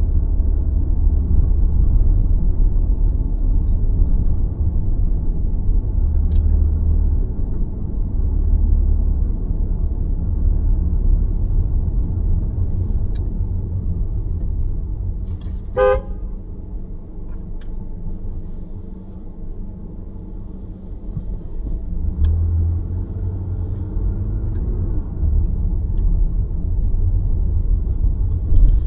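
Car driving on the road: a steady low rumble of tyres and engine that eases off a little past halfway and builds again. A car horn toots once, briefly, about sixteen seconds in.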